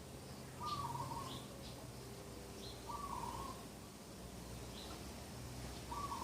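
A bird repeating a short low call three times, about every three seconds, with faint brief chirps from other birds higher up.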